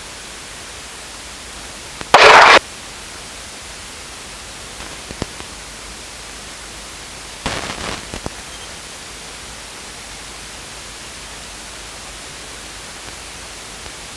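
Steady hiss of static on the cockpit intercom/headset audio, broken by a short loud burst of noise about two seconds in and a fainter crackle with a few clicks around the middle.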